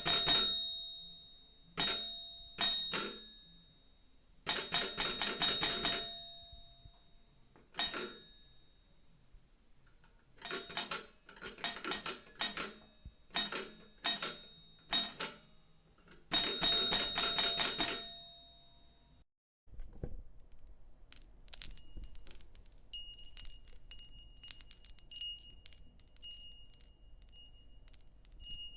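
A run of doorbell sound effects, one after another. First a bell rings in short bursts of rapid metallic strikes, some single and some longer, until about 18 seconds in. After a short pause comes a light tinkling of many small chimes, a wind-chime style door chime.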